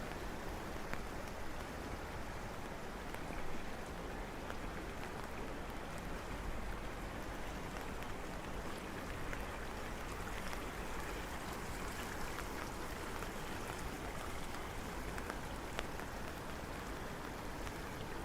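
Steady rain falling, with scattered ticks of individual drops.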